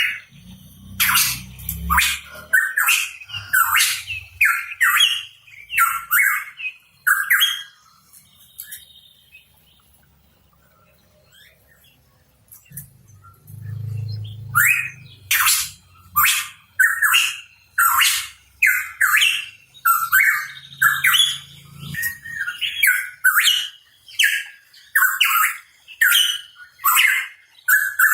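Hooded pitohui calling: a rapid series of short, loud notes, about two a second. The notes break off for a few seconds in the middle, then resume.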